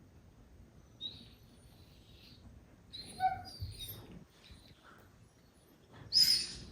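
Goldendoodle puppies playing and making short high-pitched squeaks and squeals, a few scattered calls with the loudest near the end.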